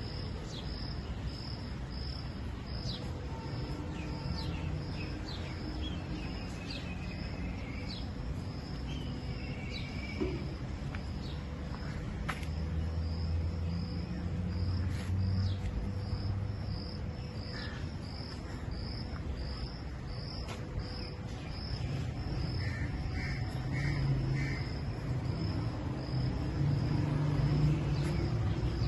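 Countryside ambience: an insect, cricket-like, chirps in a steady pulse about two to three times a second, with scattered short bird calls over a low rumble.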